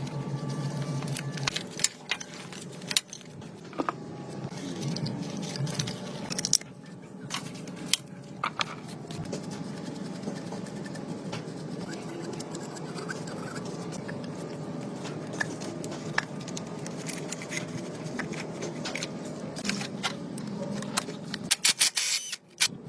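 Scattered sharp clicks and scraping, as of metal tools and parts being handled, over a low hum that stops about a second and a half in; a quick run of clicks comes near the end.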